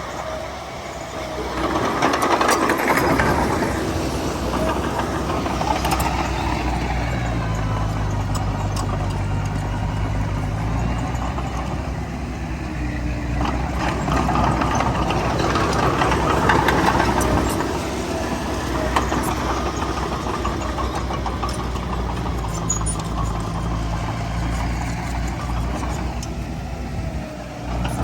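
Heavy diesel engine of earthmoving machinery running steadily with a low rumble. It works harder twice, about two seconds in and again around the middle.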